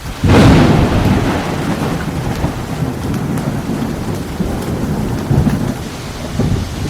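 A close thunderclap: a sudden crack just after the start that rolls into a long, low rumble fading over several seconds, with heavy rain falling throughout.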